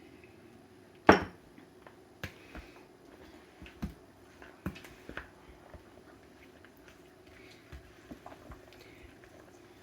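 A utensil knocking and clicking against a bowl as dressing is stirred through a chopped chicken salad: one sharp knock about a second in is the loudest, followed by scattered lighter clicks, over a faint steady hum.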